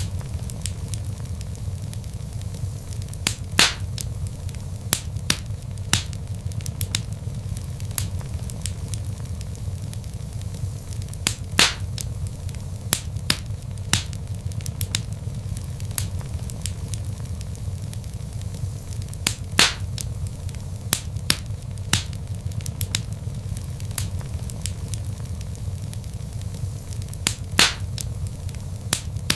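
Wood logs burning in a fireplace, crackling with frequent sharp pops over a steady low rumble of the flames. A few pops are louder than the rest, about every eight seconds.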